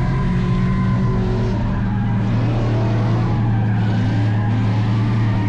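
Burnout truck's engine held at steady high revs, a loud, even drone with no big rises or falls.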